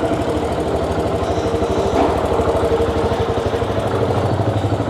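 Motorcycle engine running steadily at low revs with an even pulsing beat, heard from the bike itself as it rolls along slowly.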